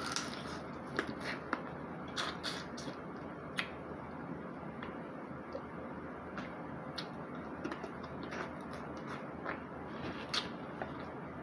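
Close-up eating sounds from a snow crab meal: scattered sharp clicks and cracks at irregular intervals, over a steady low hiss.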